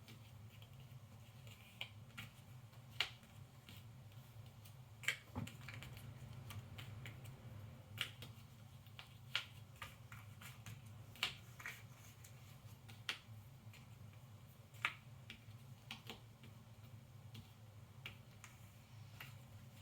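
Cardboard jigsaw puzzle pieces clicking and tapping as they are picked up, set down and pressed into place on a table, in irregular sharp ticks a second or so apart, over a low steady hum.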